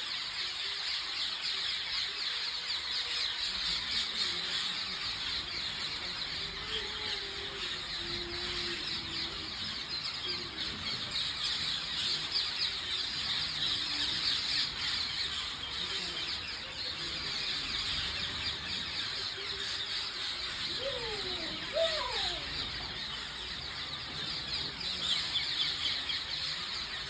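A large flock of parrots calling all at once, a dense, continuous chorus of high, shrill screeches overlapping without a break. A few lower, sliding calls stand out about two-thirds of the way through.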